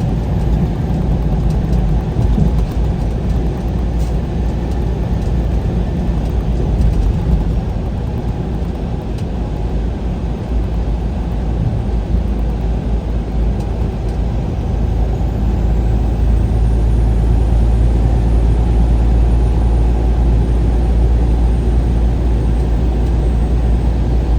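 Steady engine and road rumble of a vehicle driving along a highway, growing a little louder about two-thirds of the way through.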